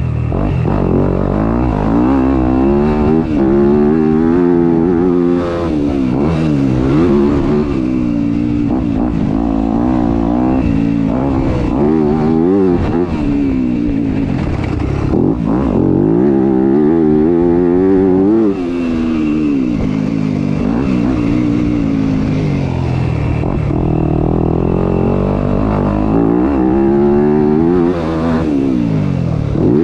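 Motorcycle engine being ridden hard, revving up and backing off over and over, its pitch climbing and dropping every few seconds.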